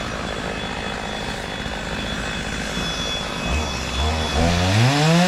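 Chainsaw running as it cuts through the trunk of a storm-felled tree, then near the end its motor note climbs sharply as it revs up.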